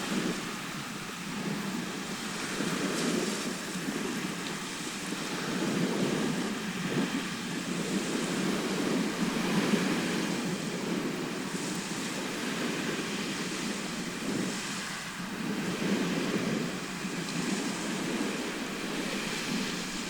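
Sea surf: waves washing in continuously, swelling and easing every few seconds.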